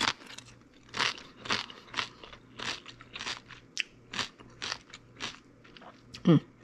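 A mouthful of tortilla chip with salsa being chewed: crisp crunches, about two a second.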